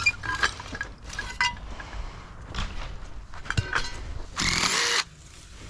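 Scattered clicks and knocks of formwork and pegs being handled, then a cordless screw gun runs in one short burst near the end, backing a screw out of the slab's edge form.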